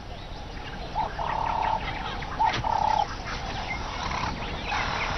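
Wild bird calls: two held calls, about a second in and again around three seconds, over scattered short chirps.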